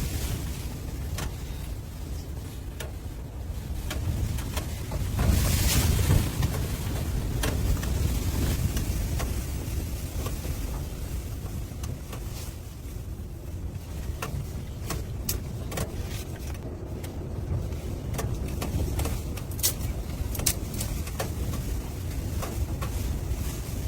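Blizzard wind blowing in gusts, loudest about five seconds in, with many scattered sharp clicks and ticks over it.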